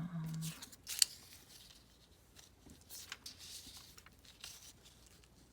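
Paper and stickers being handled: a sharp click about a second in, then light rustling and scraping of paper.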